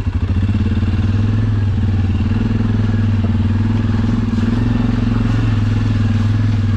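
ATV engine running steadily in low gear, with even pitch throughout.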